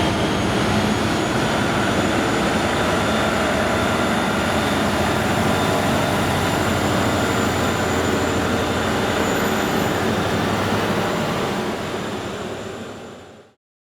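Diesel locomotives of a coal train running, a steady engine sound mixed with rail noise. It fades near the end and then cuts off suddenly.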